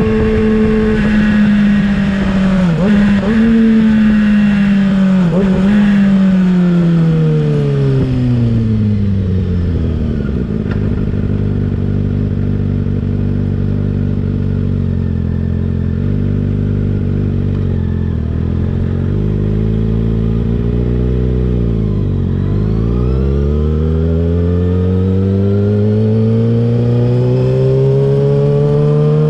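Kawasaki ZX-6R inline-four through an M4 GP19 slip-on exhaust, heard while riding. The engine note holds high with two brief dips, falls away as the bike slows, runs low for a while, then climbs steadily as it accelerates again.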